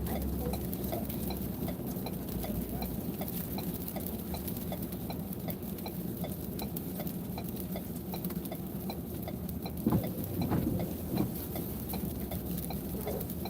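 A car's turn-signal or hazard flasher clicking steadily, a few clicks a second, over the low hum of an idling engine, with a short louder noise about ten seconds in.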